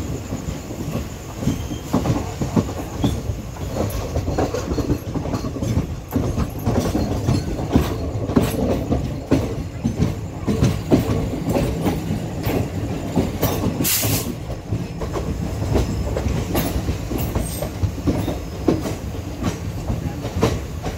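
Express train running on the rails, heard from an open coach doorway: a steady rumble with many irregular clicks and clatters as the wheels cross rail joints and points on the approach into a station.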